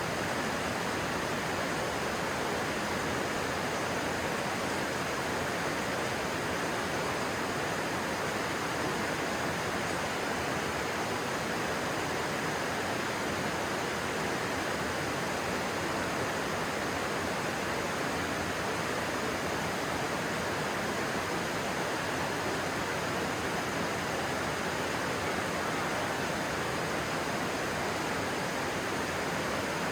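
Stream water rushing steadily, a constant even noise.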